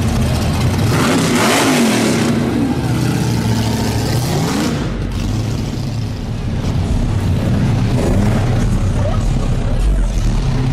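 Car engines running as cars drive slowly out, with one engine revving up and down about a second and a half in.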